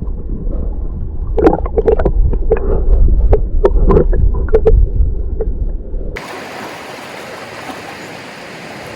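Muffled low rumble with scattered sharp knocks and clicks. About six seconds in it cuts to a steady rush of moving water.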